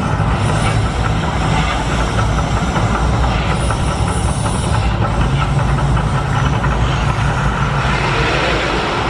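A steady, loud low rumble with a hiss over it.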